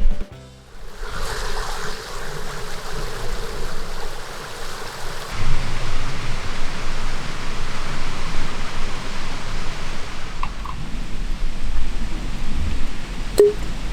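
Steady rushing noise, with a single sharp click about a second before the end.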